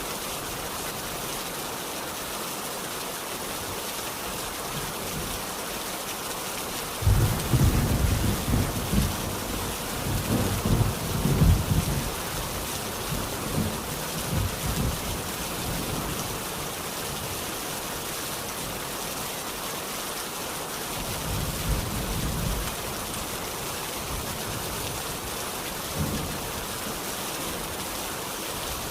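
Steady rain falling, with thunder rumbling low for about five seconds starting some seven seconds in, a fainter rumble later and a brief one near the end.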